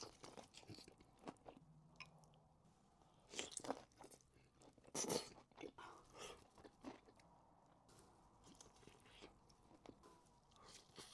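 A person chewing and crunching a mouthful of food close to the microphone. Louder crunchy bites come about three and a half and five seconds in, with softer chewing between.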